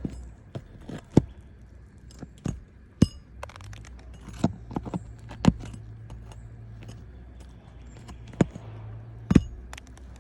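Irregular sharp knocks and clinks of hard objects being handled, a dozen or so, some with a brief metallic ring, over a low steady hum in the middle part.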